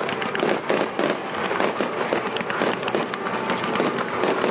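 Fireworks display going off at full pace: a dense, continuous run of pops and bangs from shell bursts and rising gold comets, overlapping with no pause.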